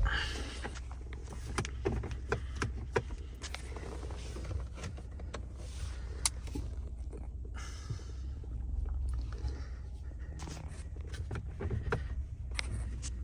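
Vehicle engine running at low speed as it is repositioned to line up with a boat trailer hitch, a steady low rumble with scattered clicks and knocks and a brief hiss about two-thirds of the way through.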